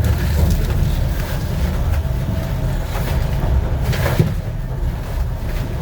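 Docklands Light Railway train running, heard from the front of the car: a steady, uneven low rumble with a brief click about four seconds in.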